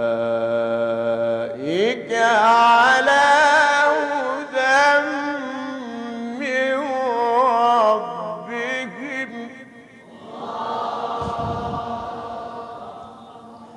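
A man's voice reciting the Quran in the melodic, drawn-out mujawwad style. A long held note slides swiftly upward about two seconds in, then breaks into wavering, ornamented runs that settle lower around eight seconds and fade. A softer held tone follows from about ten seconds.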